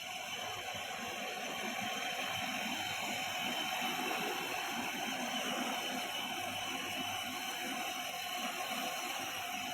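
Steady background noise of a busy indoor mall, with a faint steady tone or two running through it.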